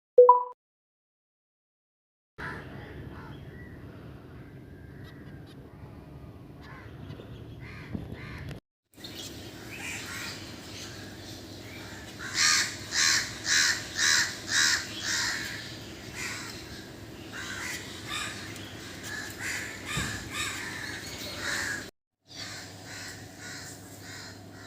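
Crow cawing: a quick run of about six loud caws roughly halfway through, with fainter calls here and there, over a steady low background hum.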